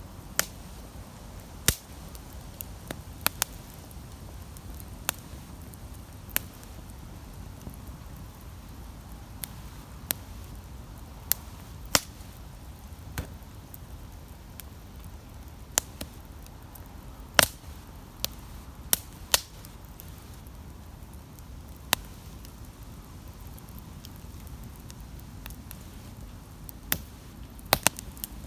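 Wood campfire crackling: sharp, irregularly spaced pops and snaps, a few much louder than the rest, over a low steady rumble.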